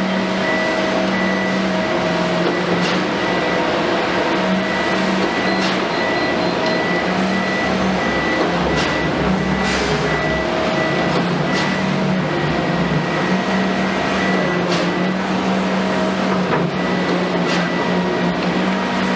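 Komatsu PC210 excavator's diesel engine running steadily under load, with a few sharp knocks scattered through.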